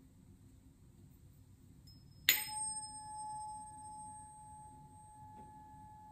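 Tuning fork struck once about two seconds in, then ringing on a single steady pitch with faint higher overtones, slowly fading.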